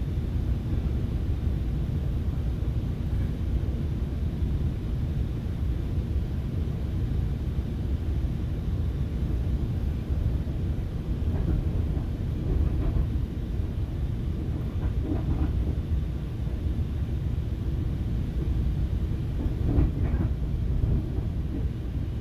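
FrontRunner commuter train running along the track, heard from inside the passenger car as a steady low rumble. A few brief knocks come through around the middle and again near the end.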